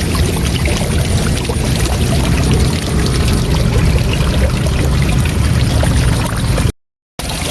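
Waterfall rushing: a steady wash of water noise with a heavy low rumble. Near the end it cuts out to silence for about half a second, then resumes.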